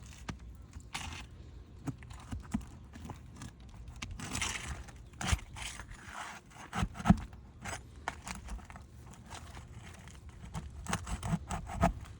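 Brittle asphalt roof shingles being handled and lifted, with irregular scrapes, clicks and knocks: a longer scraping rasp about four seconds in, a sharp knock about seven seconds in and a run of clicks near the end.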